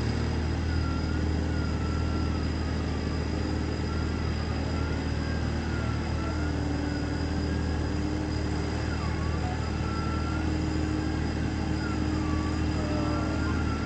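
A 4x4's engine running steadily at low revs, its pitch shifting slightly about six seconds in. A thin, wavering high tone rises and falls above it.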